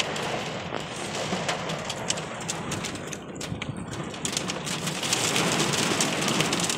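Heavy downpour drumming on a car's roof and windows, heard from inside the car: a dense rain hiss full of sharp drop hits, growing louder about five seconds in.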